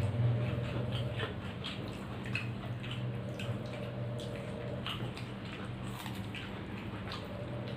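Close, wet mouth sounds of someone eating rice with their hand: irregular smacking and chewing clicks, with soft squishing of rice mixed by hand on the plate, over a steady low hum.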